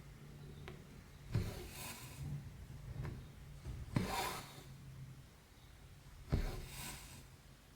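Embroidery needle punching through 14-count cross-stitch fabric with a sharp pop, followed by a short swish as the floss is drawn through. This happens three times, about two and a half seconds apart.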